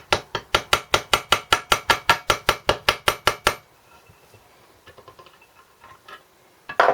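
Rapid, evenly spaced hammer taps on a small engine part, about six a second for three and a half seconds, driving a tight-fitting part of the 1964 Briggs & Stratton engine loose. Faint clicks follow, then a louder knock at the very end.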